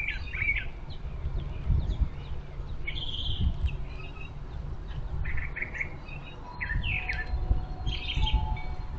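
Several small birds chirping and calling in short bursts and brief trills, over a steady low rumble.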